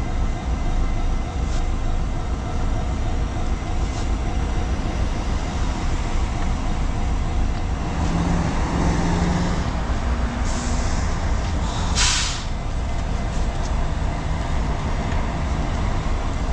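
ION city buses running past with a steady low engine rumble, and a sharp hiss of air brakes about twelve seconds in, after a fainter hiss a moment before.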